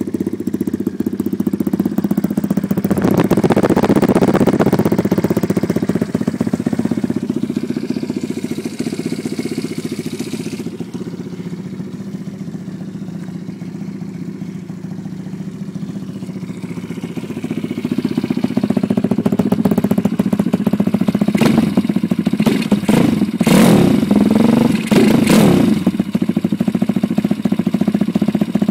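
Lifan 150 cc single-cylinder dirt-bike engine running. It swells a few seconds in, drops back, then rises again from about two-thirds through, with a cluster of short sharp sounds near the end.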